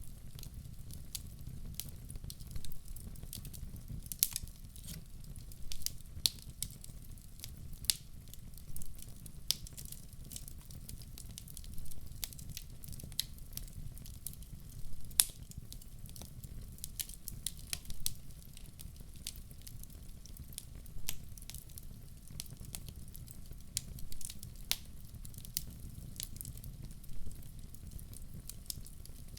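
Wood fire crackling in a fireplace: irregular sharp pops and snaps, several a second at times, over a low steady rumble of the flames.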